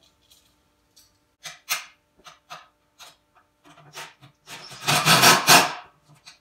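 Small metal hardware and tools clicking and knocking as caster bolts, washers and nuts are fitted. Then, about five seconds in, a loud rasping run of a little over a second as a tool drives a caster nut down.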